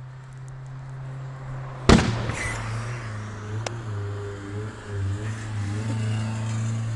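Car engine running on hydrogen gas, with one loud sharp bang about two seconds in, a backfire, and a fainter pop over a second later; the engine note then rises and falls as the car drives past.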